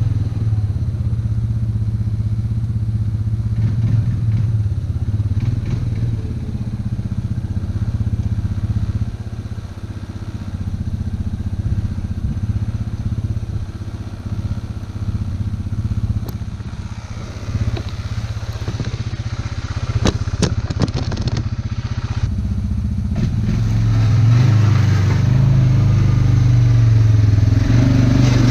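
ATV engine running steadily while pushing a front plow blade through snow, with a run of clattering knocks about two-thirds of the way through; the engine gets louder near the end.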